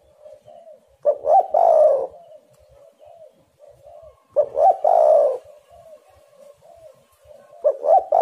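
Spotted dove cooing: three loud phrases about three seconds apart, each a couple of short coos running into a longer burred coo, with fainter, quicker cooing between them.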